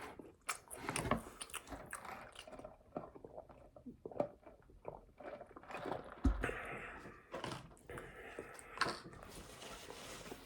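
Close-miked biting and chewing of a bacon cheeseburger: wet smacking and clicking mouth sounds at an irregular pace. A dull thump about six seconds in.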